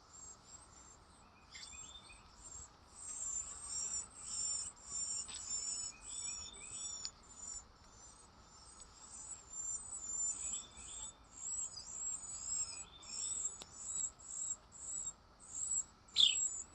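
Carolina wrens chirping: a fast run of short, high, thin calls, two or three a second, growing louder about three seconds in.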